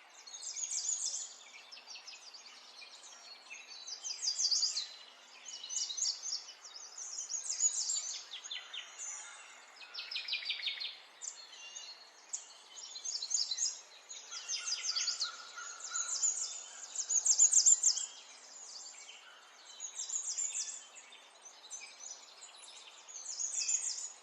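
Songbirds singing: repeated bursts of high chirps and rapid trills every second or two, some trills sliding downward, over a faint steady hiss.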